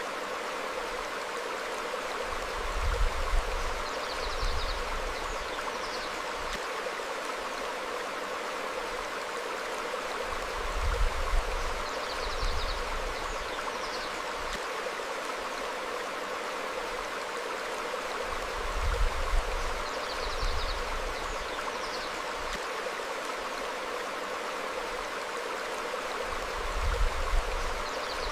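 Stream flowing steadily over rocks, a constant rushing of water. About every eight seconds a low rumble swells briefly, each time with a few faint, short high chirps.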